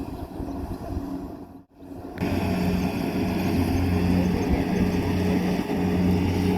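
Rice combine harvester running steadily, a low engine hum. The sound cuts out briefly a little under two seconds in, then comes back louder.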